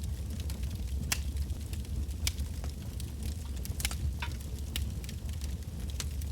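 Campfire of burning firewood logs crackling and popping, sharp irregular snaps over a steady low rumble of the flames.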